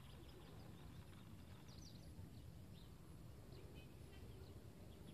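Faint outdoor ambience: a low steady rumble with scattered short bird chirps, several times over.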